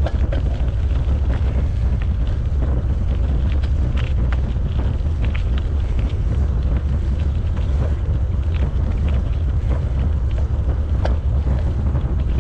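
Wind buffeting the microphone of a camera on a moving bicycle: a loud, steady low rumble, with scattered small clicks and rattles.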